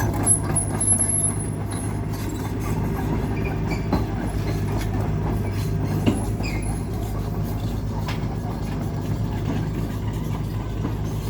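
An engine or machine motor running steadily with a low hum, with scattered knocks and clatter over it.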